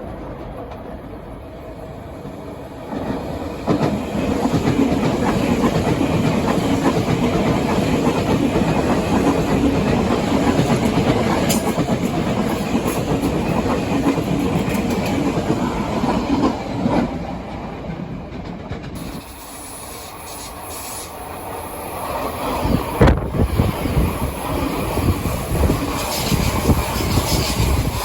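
Tokyo Metro 8000 series subway train running on the rails, wheels clacking over rail joints. It gets louder about three seconds in, eases off for a few seconds past the middle, then grows loud again with sharp knocks near the end.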